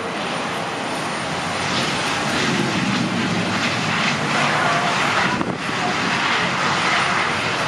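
Jet airliner engines running, a broad steady rush that builds over the first couple of seconds and then holds.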